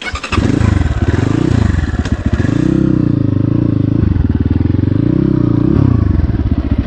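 Dirt bike engine going from quieter running to loud revving right at the start, then rising and falling in pitch again and again as the throttle is worked on an off-road climb.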